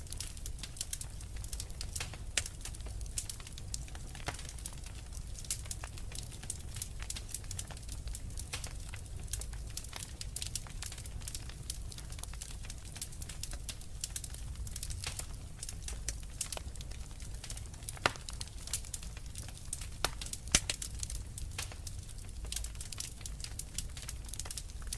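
Wood fire burning in a fireplace, crackling and popping irregularly over a low steady rumble of the flames, with a couple of louder pops in the last third.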